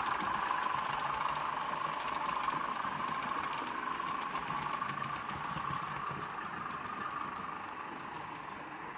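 A model train running on the layout: a steady whirring hum with faint rapid clicking, slowly fading as it moves away.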